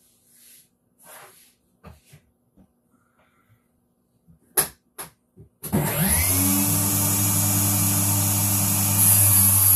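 A few light knocks and a sharp click, then a power tool's electric motor switches on about two-thirds of the way in. It spins up in a moment and runs loudly at a steady pitch.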